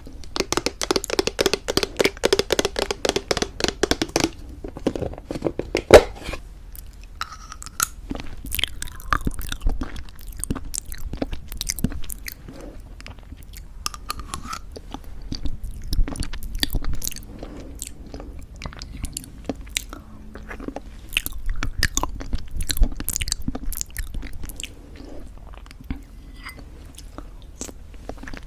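Close-miked chewing and crunching of homemade granola in thick yogurt, with quick crackling crunches for the first few seconds, a single sharp click about six seconds in, then slower, scattered crunches.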